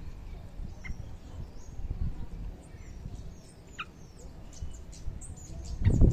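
Small songbirds giving short, scattered high chirps over a low rumbling background noise that grows loud near the end.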